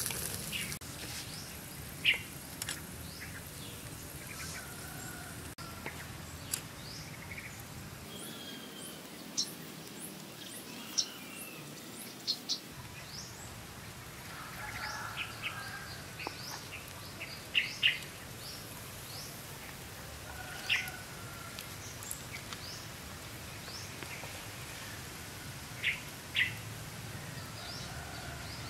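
Small birds chirping and tweeting now and then, short high calls scattered through, over a faint steady outdoor background.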